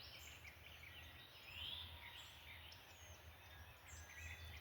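Faint birdsong: a scatter of short chirps and trills, one longer rising-and-falling call about two seconds in, over a steady low hum.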